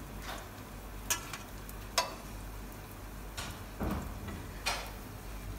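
Potato hash brown patty shallow-frying in oil in a nonstick pan: a faint steady sizzle broken by about six sharp crackles and pops of spitting oil, the loudest about two seconds in.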